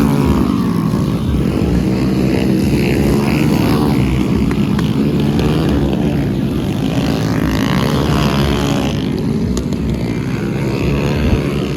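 Small single-cylinder motorcycle engines of the Honda Pop 100–110 class racing, revving up and down so the pitch keeps rising and falling.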